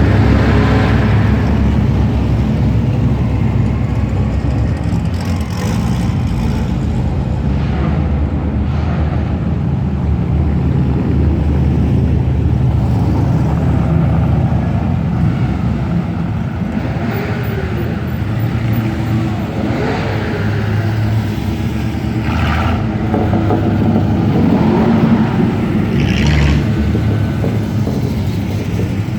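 Engines of classic cars and hot rods cruising past in a steady low rumble, with individual cars swelling louder and fading as they pass several times.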